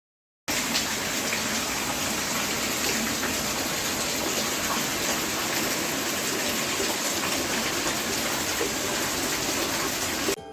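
Heavy rain pouring, a steady rushing hiss that starts suddenly about half a second in and stops abruptly near the end.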